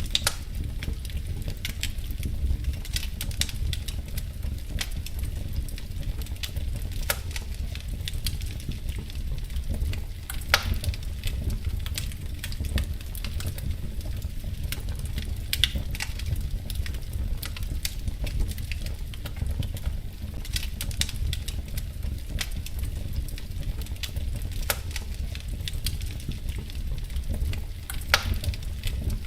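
Wood fire crackling in a fireplace: irregular snaps and pops, a few sharper ones now and then, over a steady low rumble of the burning fire.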